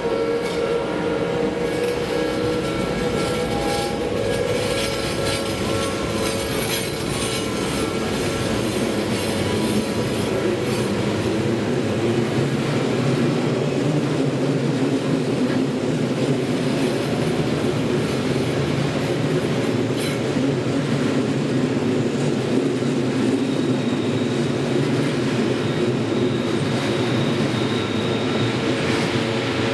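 Odakyu Line electric commuter trains passing over the level crossing, with a steady rumble and steel wheels clattering over the rail joints, most clearly in the first ten seconds.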